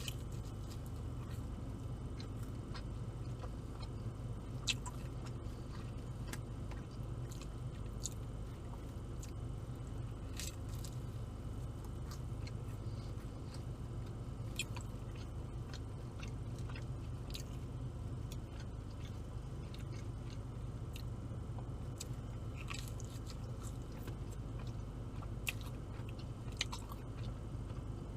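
Close-up chewing and biting of barbecue chicken pizza, with scattered short mouth clicks and crunches, over a steady low hum.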